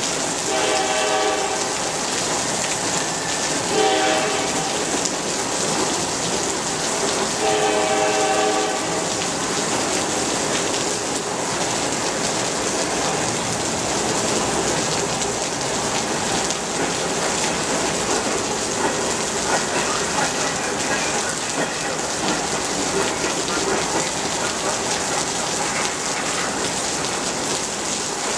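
Norfolk Southern SD70M-2 locomotive's five-chime Nathan K5LLA air horn blowing three blasts in the first nine seconds: long, short, then long. The horn sounds over a steady hiss of heavy rain, which carries on alone afterwards.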